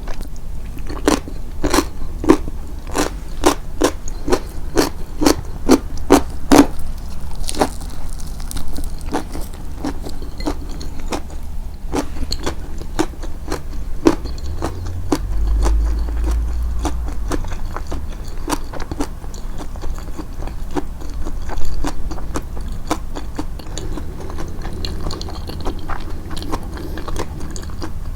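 Close-miked chewing, emphasised for eating ASMR: a run of crisp, regular crunches about two a second for the first several seconds, then softer, quicker chewing with a brief low rumble midway.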